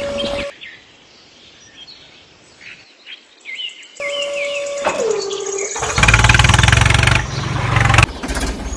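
Birds chirping over a quiet background. From about four seconds a steady tone comes in and drops in pitch. Then a loud buzzing, motor-like sound runs for about a second and is the loudest thing here.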